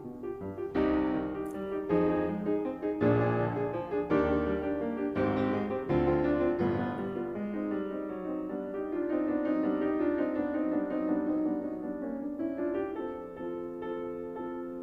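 Background piano music: strong chords struck about once a second, then softer held notes.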